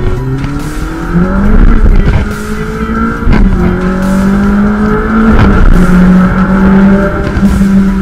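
Ferrari engine heard from inside the cabin, accelerating hard: its pitch climbs and drops back at quick upshifts about three and a half and five and a half seconds in.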